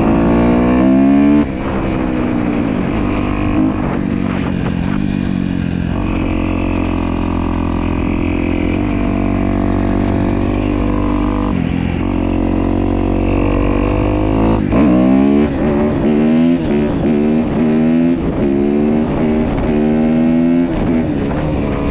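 2015 Kawasaki KX250F's fuel-injected single-cylinder four-stroke engine being ridden, now running after its zero-clearance intake valves were adjusted. It holds a fairly steady speed for several seconds, then over the last seven seconds revs up again and again, each climb in pitch broken off by a gear change.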